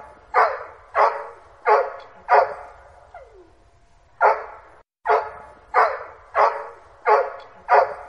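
A dog barking repeatedly, sharp loud barks about one and a half a second, in two runs; between them, about three seconds in, a short falling whine and a pause.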